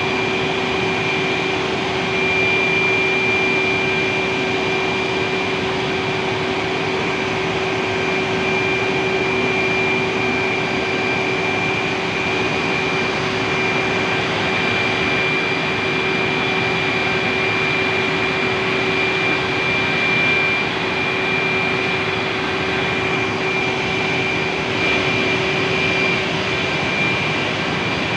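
Steam turbine of a power plant running at steady speed: a loud, even rushing noise with a steady hum and a high whine held over it.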